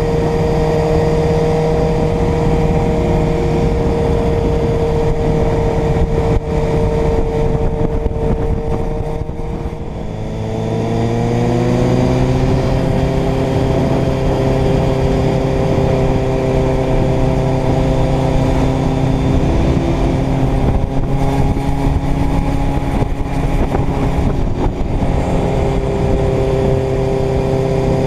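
Inline-four motorcycle engine running on the road under steady throttle, with wind rushing past. About ten seconds in the sound dips briefly and the engine note drops, as in a gear change, then climbs again as the bike pulls and settles into a new steady note.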